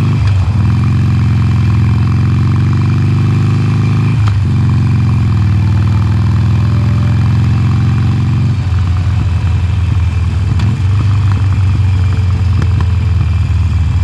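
Harley-Davidson Sportster Forty-Eight's air-cooled V-twin on its stock exhaust, pulling under throttle with the pitch slowly climbing and a brief break about four seconds in, like a gear change. Past the middle it turns uneven and choppy, as when the throttle is rolled off.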